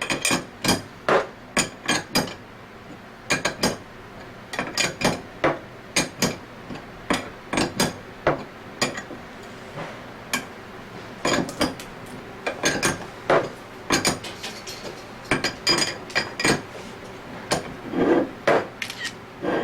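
Irregular sharp metal clinks and knocks, one or two a second, of a wrench and other hand tools working the bolts of an Anest Iwata scroll vacuum pump during disassembly.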